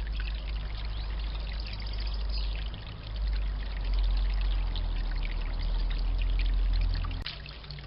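Water trickling and splashing steadily in a bird bath, with many small drips and splashes. Under it there is a low rumble that grows louder in the middle and stops suddenly with a click near the end.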